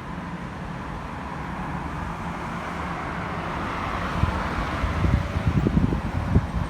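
Roadside traffic noise, with a passing vehicle swelling in the second half and wind gusting on the microphone.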